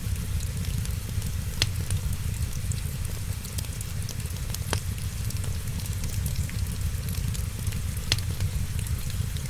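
Wood fire crackling steadily over a low rumble, with three sharper pops about 1.5, 4.5 and 8 seconds in, under an even hiss of rain.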